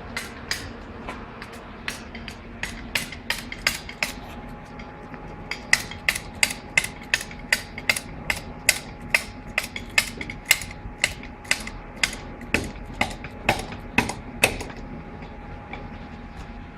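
Metallic clicking from a hand tool being worked: sharp clicks at about three a second, in runs broken by short pauses, over a faint steady hum.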